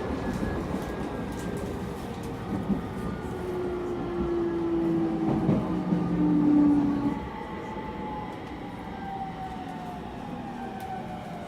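E231 series commuter train running and braking, its Mitsubishi IGBT-VVVF inverter whine slowly falling in pitch as the train slows, over wheel and rail running noise. A louder steady tone comes in for a few seconds near the middle, then the sound eases off.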